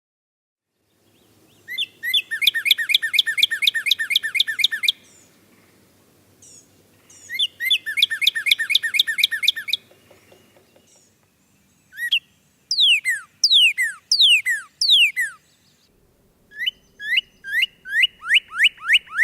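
A songbird singing: two fast trills of short repeated notes a few seconds apart, then a run of long downward-sliding whistles and another trill near the end.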